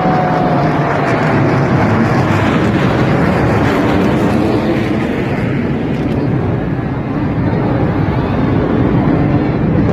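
Sukhoi Su-30 fighter jet flying over, its twin turbofan engines making a loud, steady jet roar without a break.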